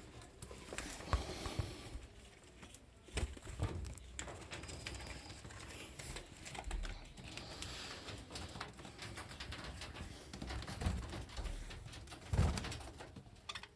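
Pet cockatiel making soft chirps and chatter, with many scattered small taps and scratches throughout.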